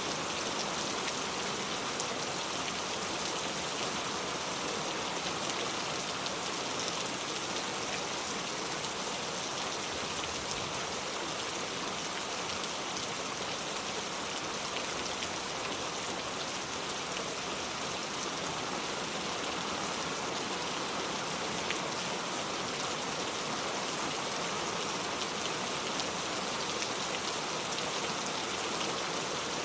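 Steady rain falling, with fine drop ticks over an even hiss.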